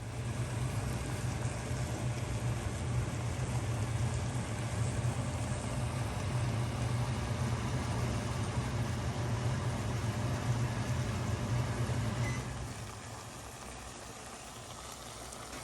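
Steady low mechanical hum with a hiss over it, like a kitchen motor running; it drops away about twelve seconds in, leaving a fainter hiss.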